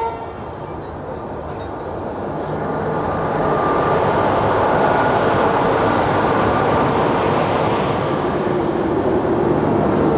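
Passenger express train running past on the adjacent track, its rail and wheel rumble building over the first few seconds and then holding loud and steady. A short locomotive horn toot sounds right at the start.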